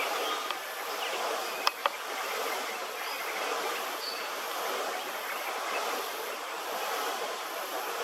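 Steady outdoor background noise, an even hiss, with two sharp clicks close together about two seconds in and a few faint, short high chirps.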